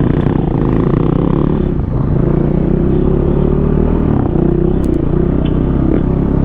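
Four-stroke single-cylinder enduro dirt bike engine running under throttle on a trail, its pitch shifting a little as the rider works the throttle.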